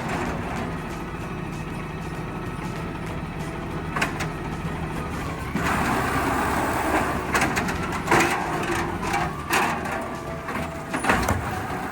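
Garbage truck engine running steadily. About halfway through it picks up into a louder rushing sound, and several sharp clanks are heard along the way.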